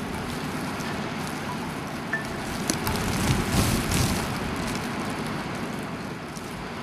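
Blizzard wind blowing across the microphone as a steady rushing noise, swelling for a moment about three seconds in.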